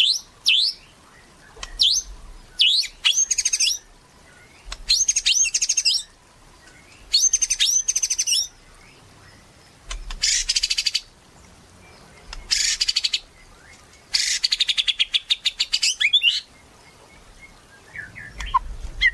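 White-rumped shama (murai batu) singing in full song. It gives phrases of quick high sweeping whistles that alternate with fast buzzy rattles, each phrase lasting a second or two with short pauses between them.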